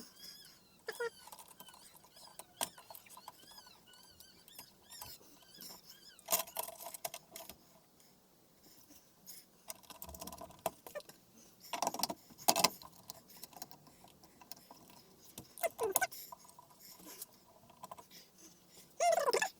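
Intermittent clicks, rattles and rustles of parts being handled, with a few short squeaky sweeps.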